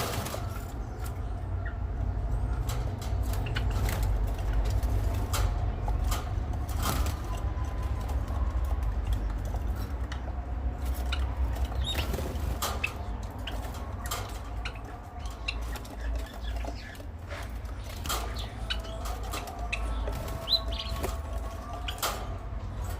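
Small birds chirping briefly now and then, among frequent wing flutters and light scuffling clicks, over a steady low rumble.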